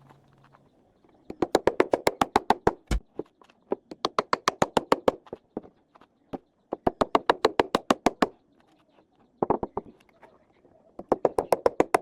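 Rapid hammer strikes on wood, about seven a second, in bursts of one to two seconds with short pauses between.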